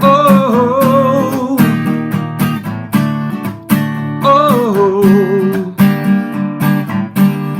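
Acoustic guitar strummed in a steady rhythm under a singing voice holding two long 'oh's, one at the start and one about four seconds in.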